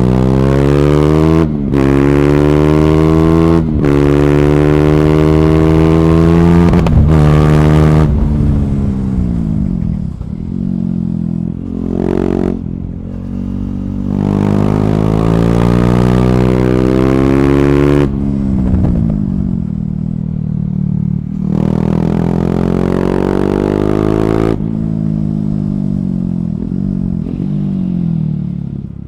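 KTM Duke 390 single-cylinder engine through an Akrapovic slip-on exhaust with the catalytic converter removed, accelerating hard with three quick upshifts, then rolling off and falling in pitch. A short throttle blip comes about twelve seconds in, followed by two more rising pulls, each ending in a falling deceleration.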